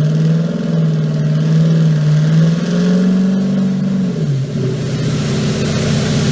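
Turbocharged 5.0 L Gen 2 Coyote V8 of a 2017 Mustang GT running at light throttle on a chassis dyno. Its pitch creeps up slightly, drops about four seconds in, then holds steady.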